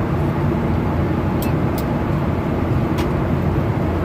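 Steady airliner cabin noise in flight: a constant low rumble of engines and airflow, with a few faint clicks.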